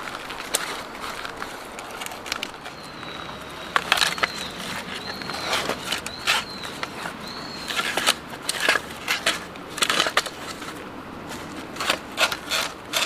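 Irregular crunching and clicking, with a run of five short arched whistles in the middle.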